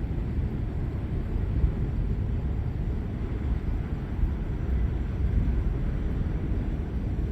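Steady low rumbling noise of a severe thunderstorm, with no sharp thunderclap.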